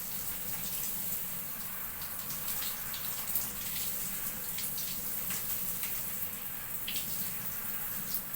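Water running steadily from a shower onto a cockatiel being bathed, with scattered small splashes.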